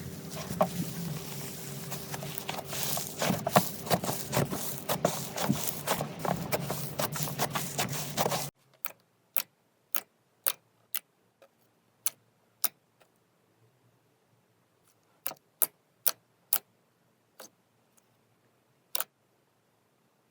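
Slime being handled for ASMR, making dense crackling and popping clicks over a steady hum. Then, after a sudden cut, separate sharp pops, roughly one a second, against near-quiet.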